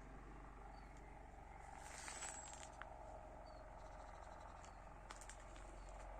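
Near silence: quiet rural outdoor ambience with a faint high chirp repeating every second or so, and a few soft scuffs about two seconds in and again near the end.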